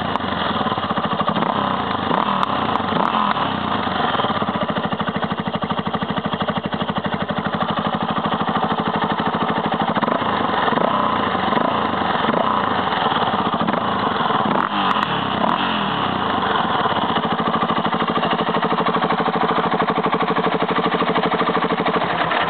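Yamaha XT660X's single-cylinder four-stroke engine running steadily through a Virex carbon aftermarket exhaust, with an even, fast pulse and no big revs.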